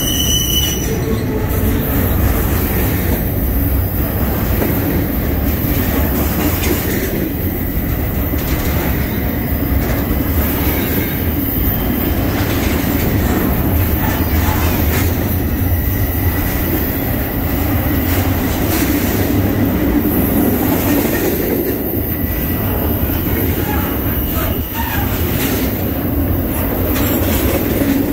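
Norfolk Southern intermodal freight train rolling steadily past at close range: a continuous loud rumble of wheels on rail, with a faint thin wheel squeal coming and going.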